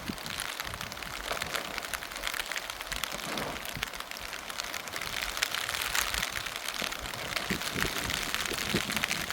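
Heavy rain falling, a dense steady patter of many drops that grows a little louder partway through.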